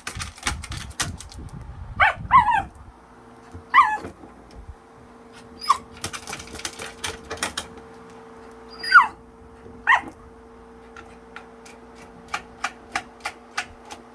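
Silver poodle giving short, high yelps and whines that slide in pitch, about six of them spread out, in excitement over the electric fan. A steady electric fan hum runs underneath from a few seconds in, and there is a run of light, evenly spaced clicks near the end.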